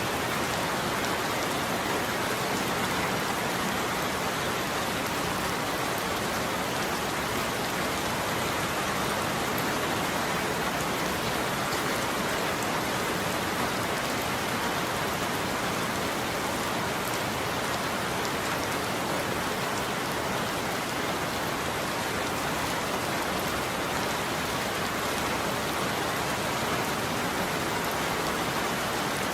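Steady heavy rain drumming on a roof: a constant, even hiss with fine drop ticks, and no thunder.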